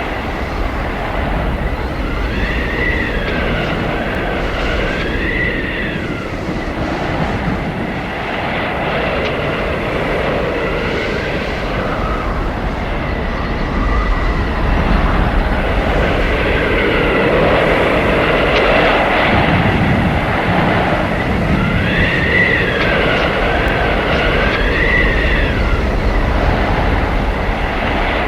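Blizzard wind blowing hard in a steady rushing roar, with high whistling howls that rise and fall in pitch, strongest twice, early and near the end. The gusts grow a little louder about halfway through.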